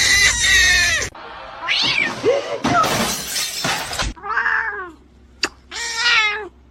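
Cats meowing repeatedly: a loud drawn-out meow first, then several shorter meows that rise and fall in pitch. A single sharp click comes a little past five seconds.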